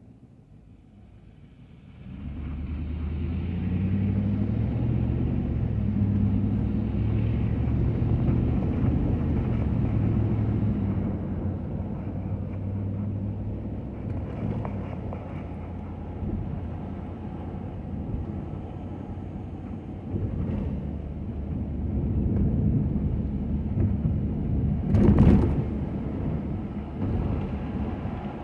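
Ford F-250 pickup truck driving: a steady low engine drone and road rumble that comes up sharply about two seconds in, with a single sharp thump near the end.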